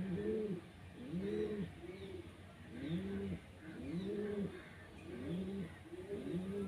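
Birds calling: a low, rounded cooing call repeated over and over, about once or twice a second, with faint higher chirps in between.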